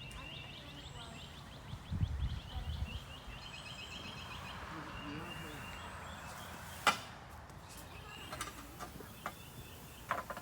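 A small bird singing a rapid run of high chirps, with a few low thuds about two seconds in and one sharp knock about seven seconds in.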